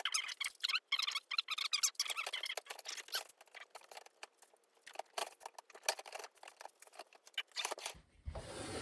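Rapid, irregular clicking and rattling of plastic dishwasher rack parts being handled and fitted, thin and high-pitched with no bass, busiest in the first few seconds and sparser later.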